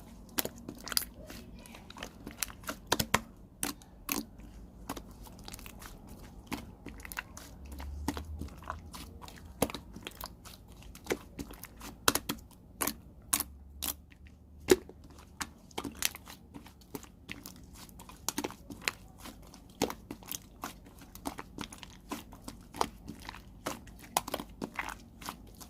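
Translucent yellow slime being pressed and worked by hand, giving off irregular sharp clicks and pops as air pockets burst.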